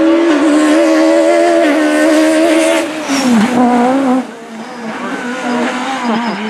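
Peugeot 306 Maxi rally car's four-cylinder engine running loud at high revs, holding a steady note, then dropping in pitch about three seconds in, picking up briefly and falling away in loudness a little after four seconds.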